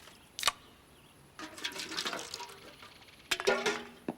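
Cartoon sound effects of liquid being poured and sloshing, with a sharp clink about half a second in and a louder gurgle near the end, over faint background music.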